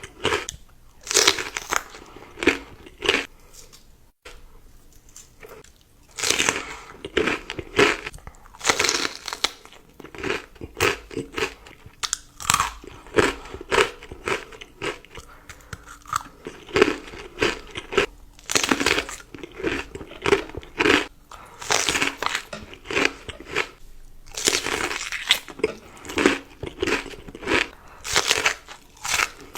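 Close-miked person biting and chewing crisp food: loud, irregular crunches in clusters, with a short lull about five seconds in.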